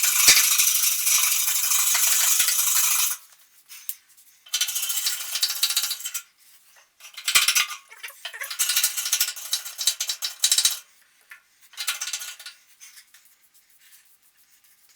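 Hand tool scraping hard carbon deposits off the steel walls inside a pellet stove's combustion chamber. It goes as a scratchy rasping in spells: a long stretch of scraping at the start, then several shorter bursts with pauses between them.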